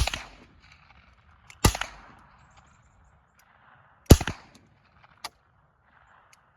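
Three shots from a .22 Long Rifle rifle: one right at the start, the next about a second and a half later, the third about two and a half seconds after that, each trailing off briefly. A fainter sharp click follows about a second after the last shot.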